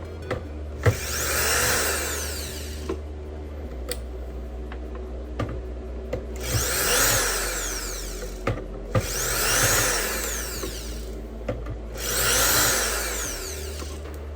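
Small handheld power tool run in four short bursts of about two seconds each, with light clicks and taps in between.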